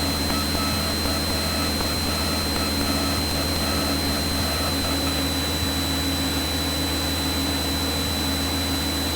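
Light aircraft's engine and propeller droning steadily inside the cockpit on approach to land, with a thin steady whine above it. A faint short tone repeats a few times a second in the first half.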